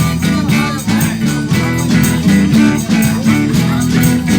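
Live band playing, with guitar to the fore over bass and a steady drum beat.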